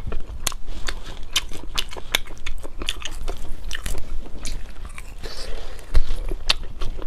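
Close-miked biting and chewing of dried duck collarbone: firm, chewy meat pulled from the bone with many sharp, irregular crunching clicks.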